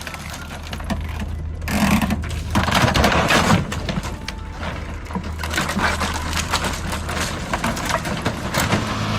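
Heavy machinery engine running with a steady low hum under irregular clattering, cracking and crunching knocks.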